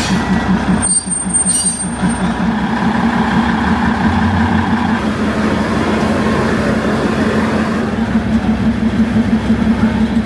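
Train's locomotive engine running at a standstill, a steady rhythmic low throb, with a brief break about a second in.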